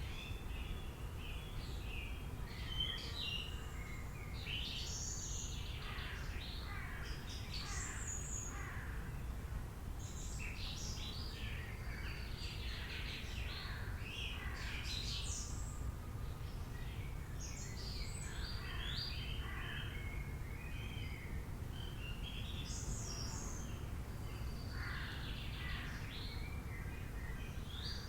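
Several wild birds chirping and singing in a dense, overlapping chorus of short, quick calls and trills, over a steady low rumble of background noise.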